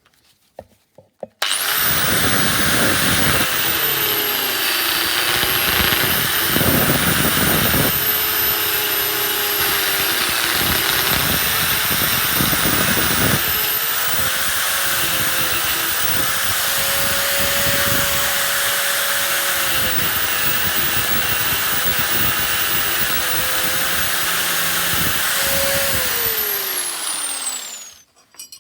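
Angle grinder cutting through a seized CV joint. It starts about a second and a half in and runs steadily, with a high motor whine and a harsh grinding noise. Near the end it is switched off and winds down, its pitch falling.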